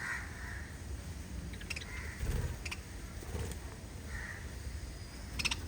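Small pet parrots chirping in scattered short calls, with a sharper burst of chirps near the end, over a low background rumble.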